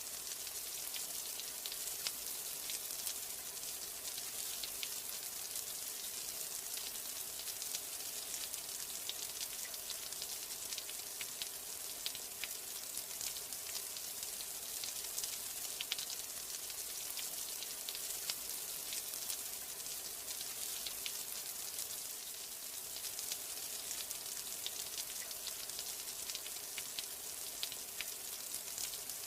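Steady rain with a dense, even hiss and many small drops ticking sharply on a surface.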